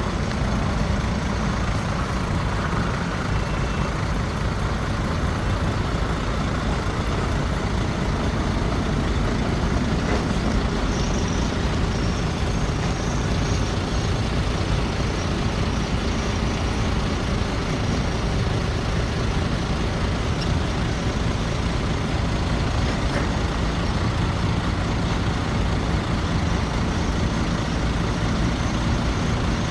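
Heavy diesel earthmoving machinery running steadily, a constant low engine drone with no letup.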